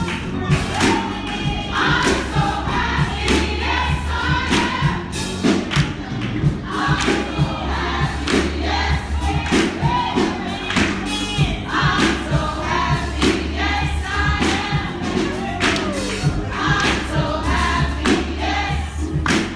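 Gospel congregation singing together in chorus, over a steady low bass, with a regular beat of sharp hits about twice a second.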